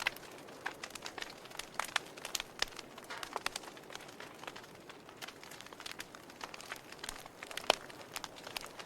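Wood fire crackling, with irregular snaps and small pops over a soft hiss and one louder pop near the end.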